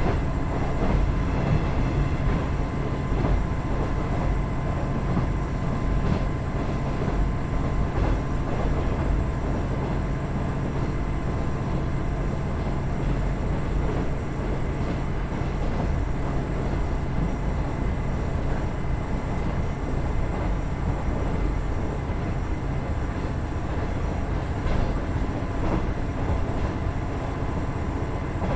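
KiHa 110 series diesel railcar under way, its Cummins DMF14HZA diesel engine and wheels on the rails making a steady low rumble. A faint steady high tone sits over it.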